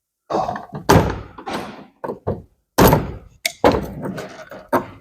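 A run of knocks and thuds, about seven in all, the loudest about a second and three seconds in, from body parts and fittings being worked off a car during strip-down.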